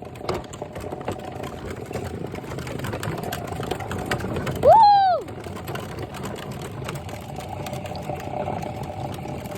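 A small motor running with a steady whirring hum. About five seconds in, a short voice cry rises and falls in pitch.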